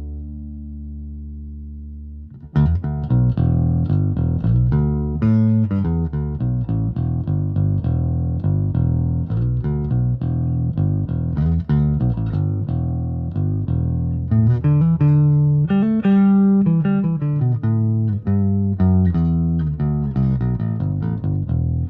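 Electric bass, a 2002 Gibson Thunderbird fitted with Lollar pickups and a Hipshot bridge and strung with stainless steel DR Lowriders, being played. A held note rings and dies away, then about two and a half seconds in a quick run of plucked notes starts, with some sliding notes in the middle, and the playing stops suddenly at the end.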